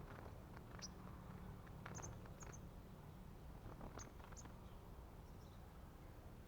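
Faint, short, very high-pitched chips from a small bird, five or six single notes spaced a second or two apart over a low steady background hum.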